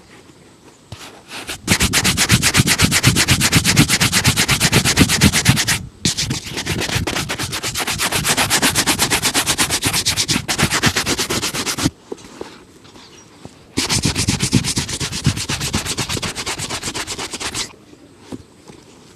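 Rapid back-and-forth buffing strokes on a shoe during a shoe shine, in three spells of several seconds each with brief pauses between them.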